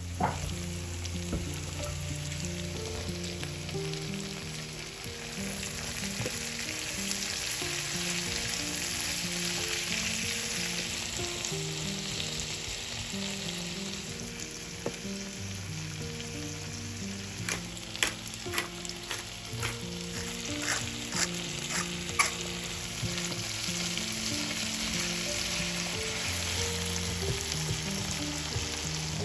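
Food frying in oil in a pan with a steady sizzle. A run of sharp clicks from a utensil stirring against the pan comes about two-thirds of the way through.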